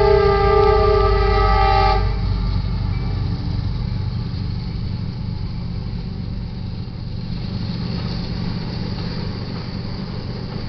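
Horn of a freight train's lead locomotive, an EMD SD70MAC, sounding a steady multi-tone chord as it passes and cutting off about two seconds in. After that comes the steady low rumble of the locomotives and freight cars rolling past.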